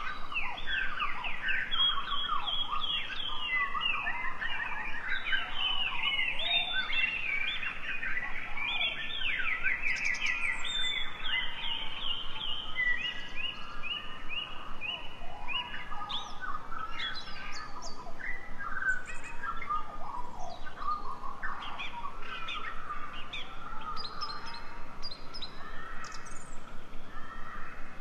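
Several birds singing and chirping at once, many quick rising and falling notes overlapping, busiest in the first half.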